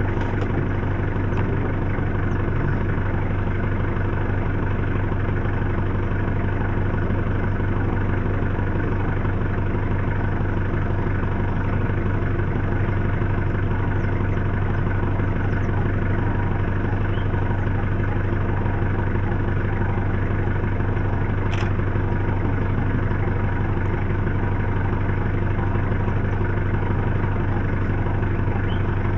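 Safari vehicle's engine idling with a steady, even low drone.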